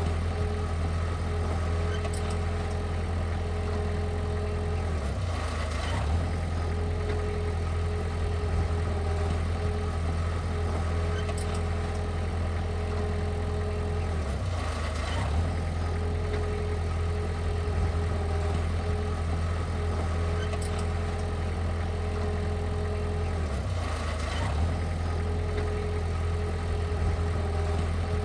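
Heavy construction machine's diesel engine running steadily, with a brief dip in the engine note about every nine to ten seconds.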